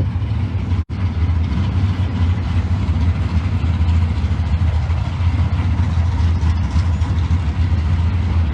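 Drag racing cars' engines idling with a loud, steady low rumble. The sound drops out for an instant about a second in.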